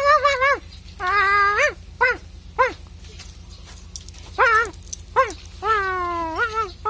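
High-pitched imitated dog barks: about eight short yaps, with two drawn-out whining calls, one about a second in and one near the end.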